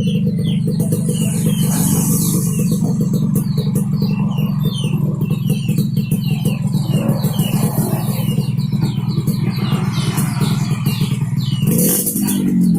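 Yamaha RX-King's two-stroke single-cylinder engine idling steadily through a standard-style racing exhaust.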